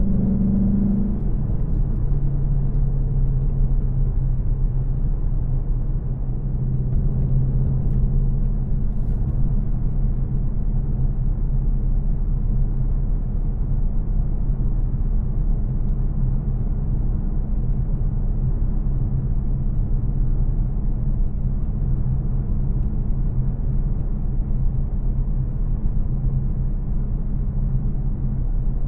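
2024 Mustang GT's 5.0-litre V8, still on its factory headers, running at a steady cruise with a low, even drone and road noise. A higher tone in the engine note drops away about a second in.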